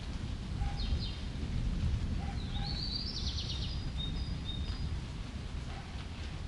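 Small birds chirping: a short run of chirps about a second in, a quick trill a little before the middle, then a few short whistles, over a steady low rumble.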